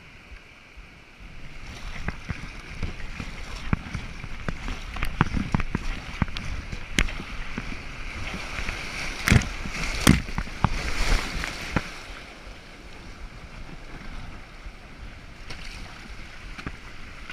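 Kayak being paddled through rushing whitewater: splashing and water noise that builds up after a second or two and eases off near the end, with a scatter of sharp knocks, the loudest two about nine and ten seconds in.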